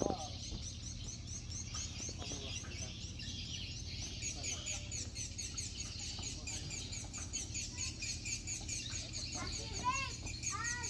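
Birds chirping steadily in the background, a dense run of short high chirps, over a low steady hum; a knock right at the start and a few louder arching calls about ten seconds in.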